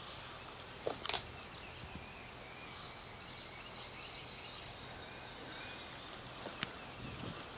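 Quiet outdoor ambience with birds chirping faintly, broken by a sharp click about a second in and another near the end.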